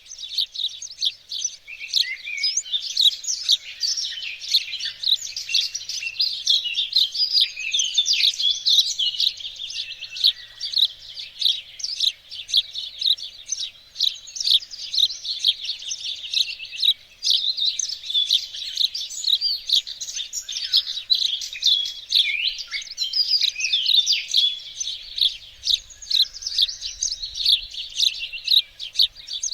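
Songbirds singing together: a dense, continuous chorus of quick, high, overlapping chirps and trills, with no pause.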